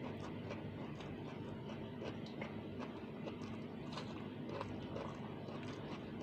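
A person chewing food, with soft, irregular mouth clicks and crunches.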